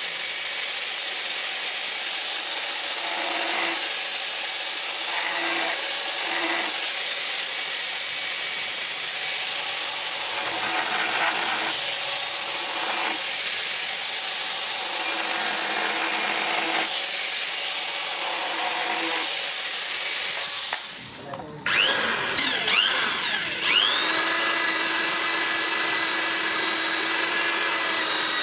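Electric grinder working steel, a dense grinding hiss that swells and eases in strokes. About 21 seconds in it drops out briefly. It then comes back with a rising whine as the motor spins up, and runs on at a steady high whine.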